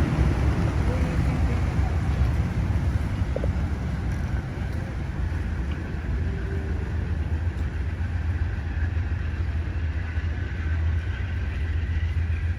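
An Amtrak train's engine running at the platform: a steady low rumble with a hiss of noise above it, easing off slightly partway through.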